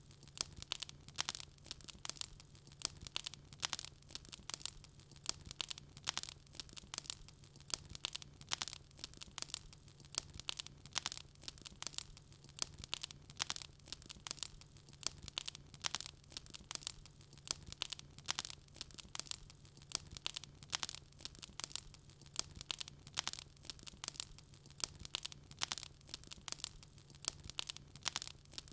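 Wood fire burning in a fireplace, crackling continuously with many small irregular pops and snaps.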